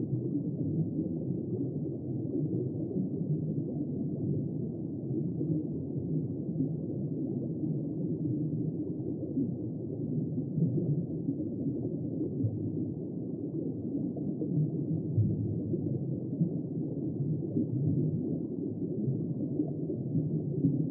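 Steady, muffled low rumble with no distinct events or pitch, cut off above a low register like sound heard underwater.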